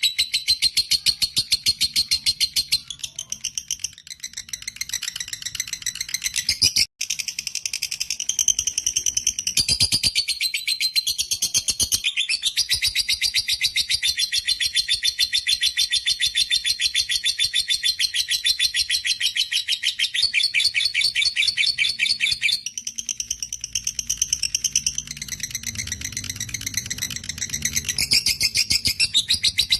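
Fighter lovebird's long 'ngekek' chatter: a rapid, unbroken run of shrill chirps, cut off for an instant about seven seconds in, then carrying on.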